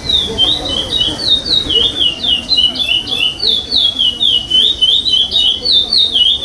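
Curió (chestnut-bellied seed finch) singing a fast, unbroken string of clear whistled notes, each sliding down or up in pitch.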